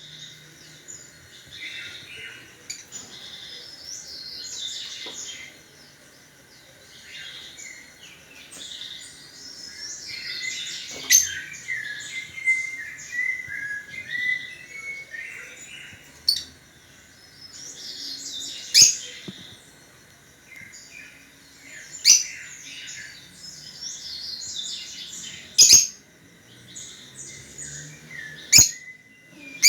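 Small songbirds chirping and twittering almost without pause, in quick high notes. Sharp clicks come every few seconds and are the loudest sounds.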